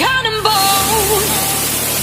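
A sung pop song that breaks off less than a second in, over a steady loud rushing roar of a waterfall.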